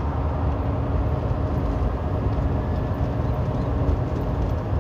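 Steady drone of a semi truck's engine and tyre noise heard inside the cab while cruising on the highway, with a faint steady hum over the low rumble.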